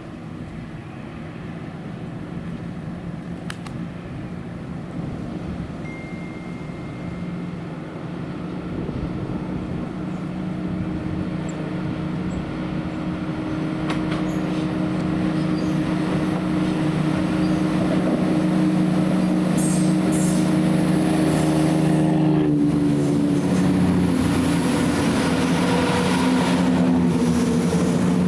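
A passenger train approaching and passing, growing steadily louder, with a steady hum that drops in pitch about three quarters of the way through.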